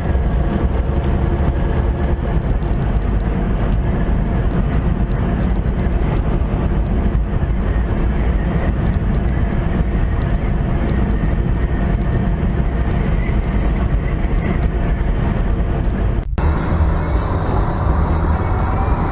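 Steady low rumble of a vehicle driving, road and engine noise, broken by a sudden cut about sixteen seconds in before a similar rumble resumes.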